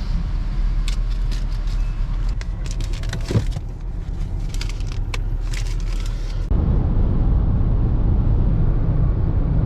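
Car driving, with steady road and engine rumble and a scattering of sharp clicks; about six and a half seconds in the road noise gets louder and rougher.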